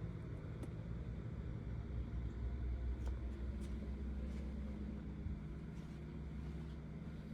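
Engine of a Blue Bird Vision school bus idling with a steady low rumble.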